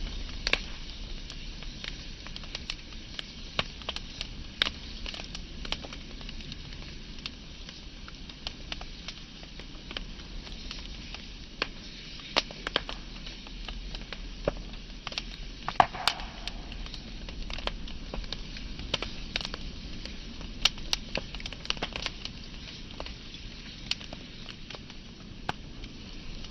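Wood fire burning with a steady low hiss and frequent irregular crackles and sharp pops of burning wood, one louder pop about sixteen seconds in.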